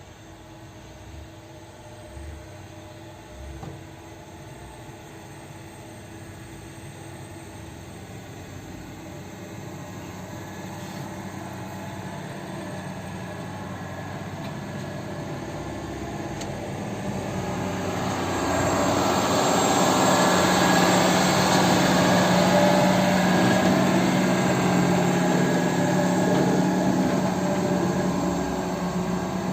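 Heavy diesel dump truck engine growing steadily louder as the truck approaches, loudest about two-thirds of the way through, then easing slightly near the end.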